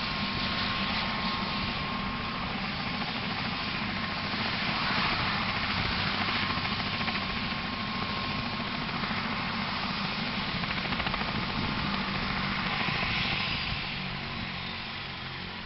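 Eurocopter AS350 B3 Écureuil helicopter's turbine and rotor running steadily, with a thin high whine over the rotor noise; the sound falls away over the last couple of seconds.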